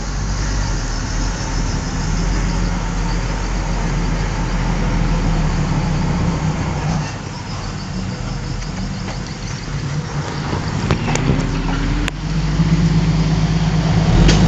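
Komatsu D31 bulldozer's diesel engine running steadily. Its note drops off about halfway through and comes back louder near the end.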